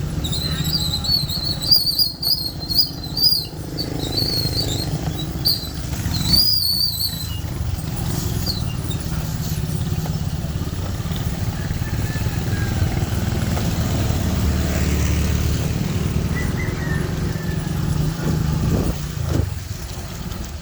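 Motorcycle engine running steadily, with a constant low hum. In the first seven seconds a high, wavering whistle-like tone comes and goes over it.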